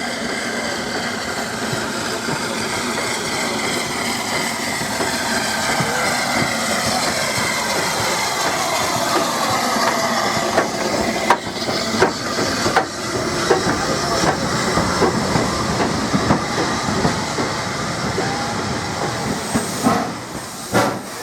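Steam train hauled by a Southern S15 Maunsell 4-6-0 locomotive running past, with a steady rumble and tones that fall in pitch partway through. From about halfway a run of sharp clicks comes in, the wheels going over rail joints.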